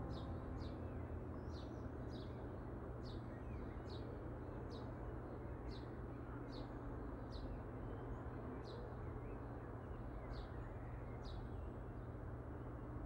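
A small bird chirping repeatedly, one short high note falling in pitch roughly every second, over a steady low outdoor hum.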